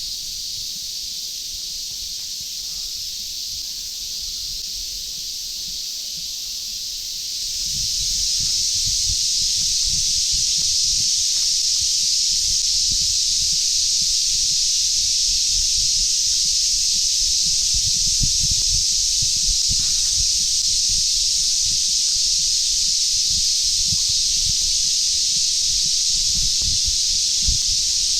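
A dense chorus of summer cicadas, a steady high-pitched droning hiss that swells louder about seven seconds in and then holds.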